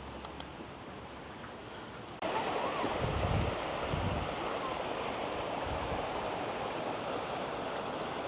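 Steady rush of flowing water that starts abruptly about two seconds in, after two faint clicks, with a couple of soft low thumps shortly after it begins.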